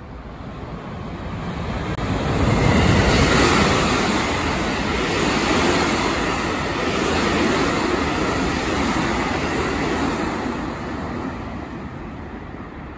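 Electric multiple-unit train passing through a station without stopping: a steady rush of wheels on rail. It swells over the first few seconds, stays loud for several seconds, then fades as the train draws away.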